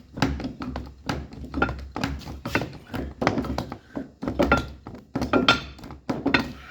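Porta power hydraulic ram being hand-pumped to push a heated, bent steel plow frame straight: repeated thunks, about two to three a second, over a steady low hum.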